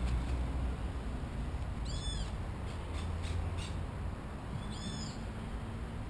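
A bird calls twice, about three seconds apart, each call a short arching note, over a steady low rumble of wind on the microphone.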